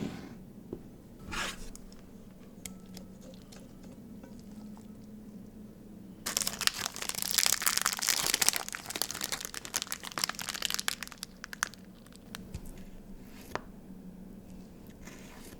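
Plastic food packaging being crinkled and torn open in a dense run of crackling for about five seconds, starting about six seconds in, with scattered small ticks before and after and a faint low hum underneath.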